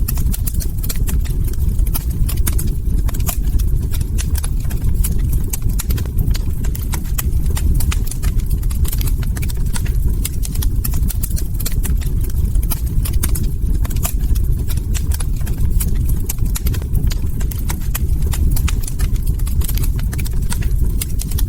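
Log fire crackling: a dense run of sharp, irregular pops and snaps over a steady low rumble of burning wood.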